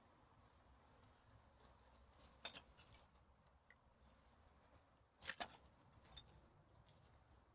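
Two short bursts of crackling rustle over a quiet background, about two and a half seconds in and a louder one near five seconds in.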